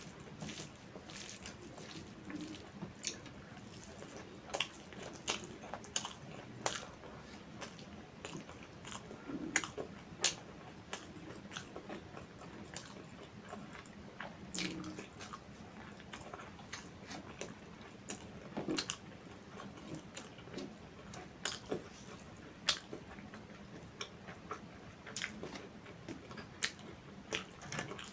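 Close-miked chewing and mouth sounds of a person eating a meal, with frequent irregular sharp wet clicks and smacks.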